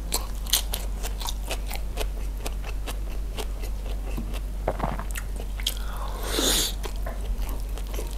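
Close-miked chewing and wet mouth clicks of someone eating grilled chicken, rice and raw vegetables by hand, with a brief louder hissing rush about six seconds in.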